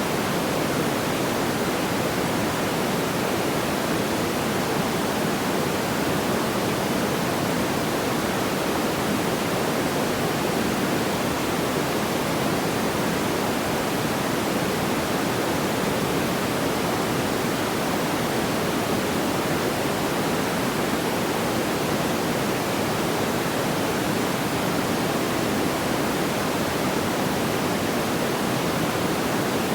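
Steady, even rushing noise like pink noise, with its weight in the low middle and no crackles or pops.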